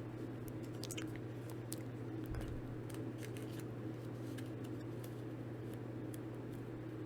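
Scattered soft clicks and crinkles from handling Pokémon trading cards and foil booster packs, over a steady low electrical hum.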